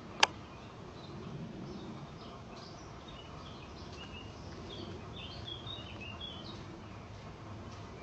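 Birds chirping in woodland: many short, high chirps scattered over several seconds, with one sharp knock about a quarter second in.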